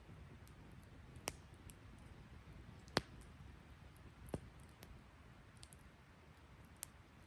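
Wood fire crackling: scattered sharp pops from burning wood, the loudest about three seconds in, over a faint low background.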